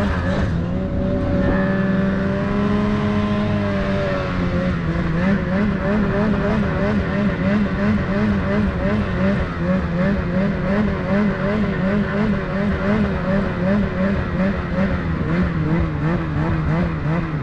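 Snowmobile engine running under load, its pitch wavering up and down as the throttle and load change, with a steadier stretch of a few seconds early on.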